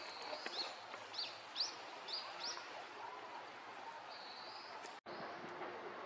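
A small bird calling: a run of about six short, sharp high notes in the first few seconds, then a longer high note, over steady outdoor background noise. The sound cuts out completely for an instant about five seconds in.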